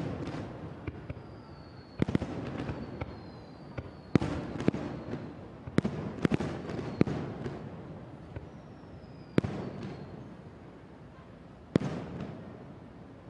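Aerial firework shells bursting, a sharp bang every second or two with a rumbling echo trailing after each, and faint high whistles falling in pitch between some of the bursts.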